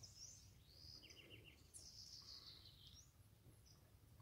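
Faint bird calls over near silence: high sweeping whistles, a quick run of about five short notes a second in, and a long call sliding down in pitch around two seconds in.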